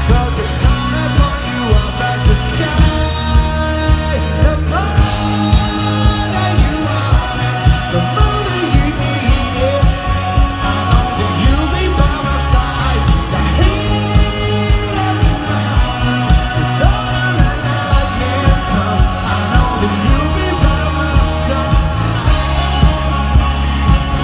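A rock band playing live with a male lead singer over drums, bass and guitars, with a steady beat of about two accents a second.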